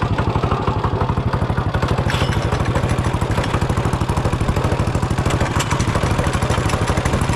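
Mini bike's small single-cylinder engine idling steadily just after being pull-started, a rapid, even pulsing beat.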